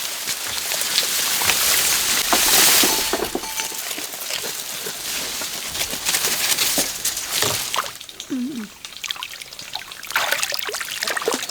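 Water pouring and splashing, louder in the first few seconds and quieter from about eight seconds in, with scattered small clicks and a brief low call about eight seconds in.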